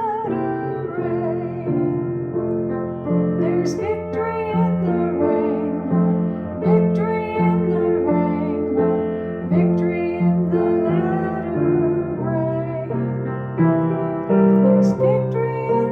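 A woman singing a gospel worship song over piano or electric keyboard accompaniment.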